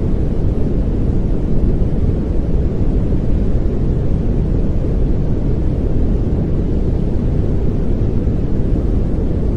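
Steady pink noise: an even, deep hiss weighted toward the low end, unchanging throughout.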